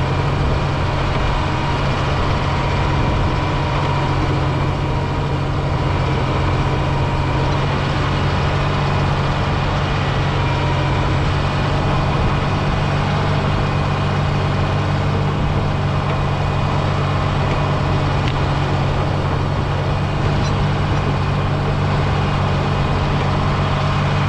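John Deere 670G motor grader's diesel engine running steadily at an even speed.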